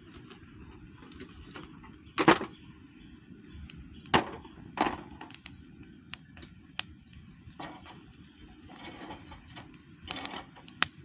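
Objects being handled: irregular knocks and clacks, a few seconds apart, over a steady low background noise.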